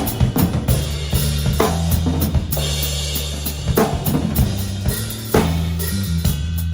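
A band playing: a drum kit with bass drum, snare and cymbals over held electric bass notes that change every second or so.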